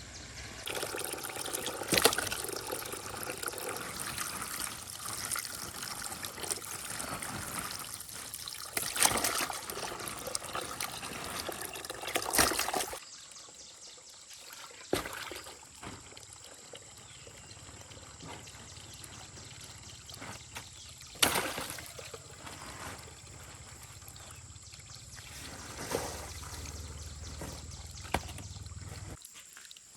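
Water trickling and pouring into a basin while fish are cleaned, louder for the first dozen seconds and then softer, with a few sharp knocks along the way.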